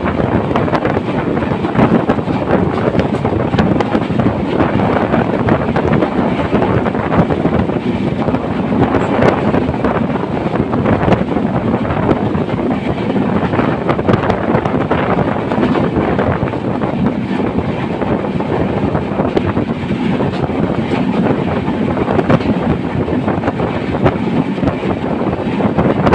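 Passenger train running at speed: a steady loud rumble and rattle of the train on the rails, with wind buffeting the microphone.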